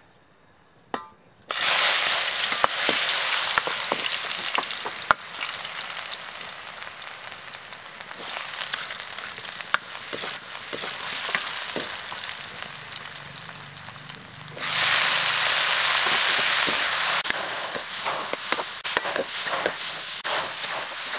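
Aromatics dropped into hot oil in a wok: a sudden loud sizzle about a second and a half in that slowly dies down, with the spatula knocking and scraping the pan as it stirs. A second loud burst of sizzling comes about two-thirds through as tomatoes go in.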